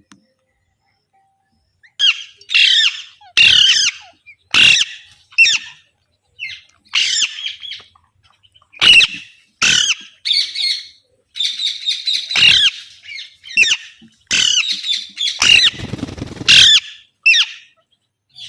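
Green parrot squawking: a long run of loud, harsh calls in quick succession, starting about two seconds in.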